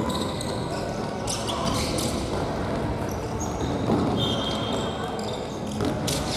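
Futsal being played on a gymnasium court: sharp ball strikes and thuds ring in the hall, with short high squeaks of shoes on the floor and players' voices in the background.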